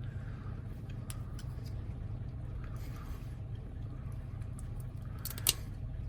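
Faint metallic clicks and taps of small lock parts being handled as a Toyota door lock cylinder is worked on, with one sharper click near the end, over a steady low hum.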